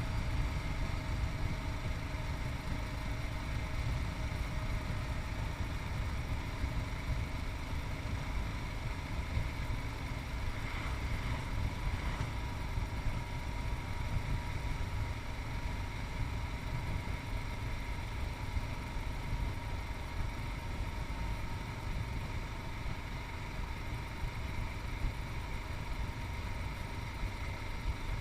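Yamaha MT-03's 660 cc single-cylinder engine running steadily while riding, heard through a chest-mounted camera with a heavy low rumble underneath.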